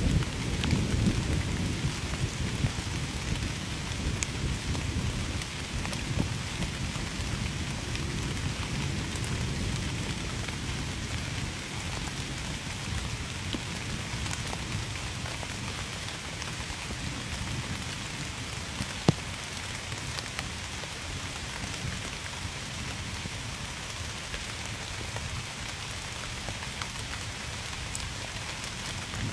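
Steady heavy rain falling, with a low thunder rumble that fades away over the first several seconds. A single sharp tap stands out about two-thirds of the way through.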